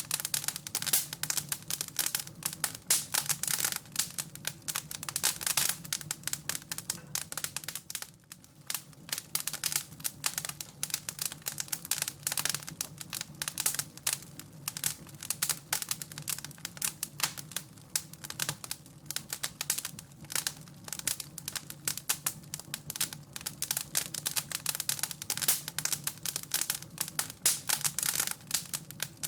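Wood fire in a fireplace crackling: dense, irregular crackles over a low steady hum, thinning briefly about a third of the way in.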